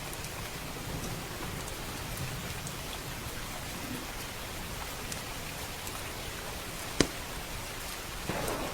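Steady heavy rain falling, with a single sharp crackle from the fireplace about seven seconds in. A low rumble of thunder starts to build near the end.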